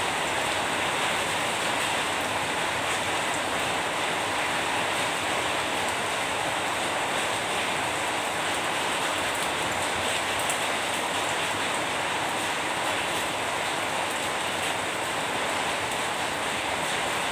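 Steady rain falling, an even hiss that holds at one level without change.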